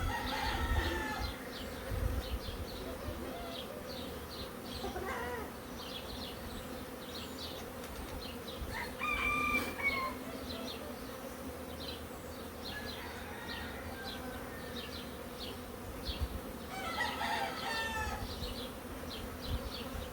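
Honeybee colony buzzing steadily from an opened hive during a frame inspection. Chickens call a few times over it, with a longer, crow-like call about nine seconds in.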